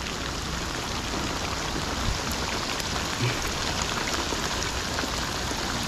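Steady rain falling, a continuous hiss with scattered faint drop ticks.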